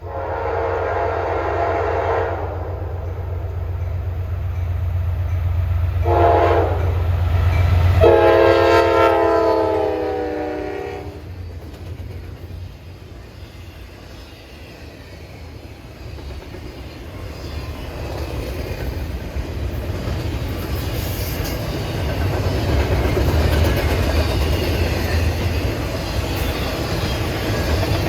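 Diesel freight locomotive horn sounding three blasts (long, short, then a longer one) over the steady low rumble of the engine. Then the rising, steady noise of the train's wheels on the rails as it comes by.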